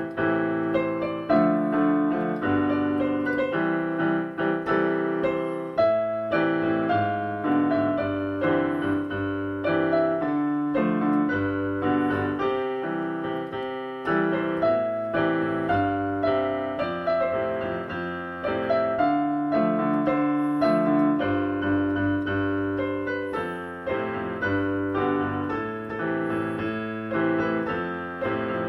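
Solo piano playing a pop song arrangement, with a steady stream of chords and melody notes.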